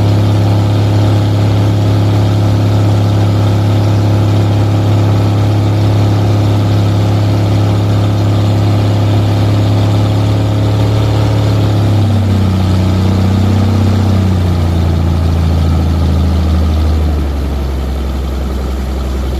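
An engine running steadily with a low hum. Its pitch wavers and drops a little past the middle, and it gets slightly quieter near the end as it slows.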